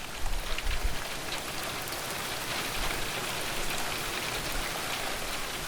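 Steady rain, a dense patter of drops on a surface, with a few low bumps in the first second.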